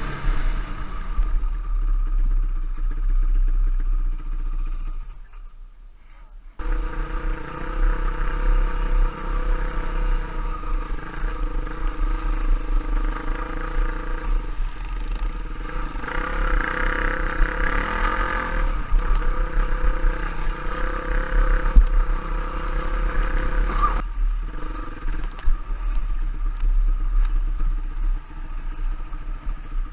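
Trail motorcycle engine running as the bike is ridden, its pitch wavering with the throttle. The sound drops away about five seconds in and comes back abruptly a second and a half later.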